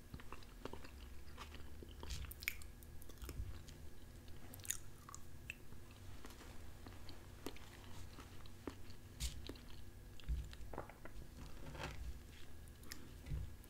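A person chewing soft roasted red potatoes and onions close to the microphone: quiet, wet mouth sounds with scattered small clicks. Near the end a fork touches the plate as he picks up the next bite.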